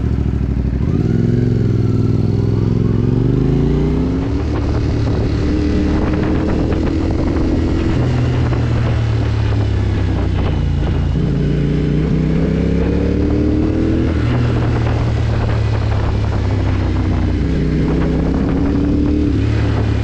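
Motorcycle engine pulling away and accelerating, its pitch climbing in three long pulls and dropping back at each gear change.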